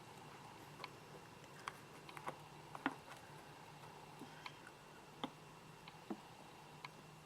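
Scattered small clicks and light taps, about a dozen at uneven intervals, with the sharpest near the middle, from hands handling succulents and their small pots.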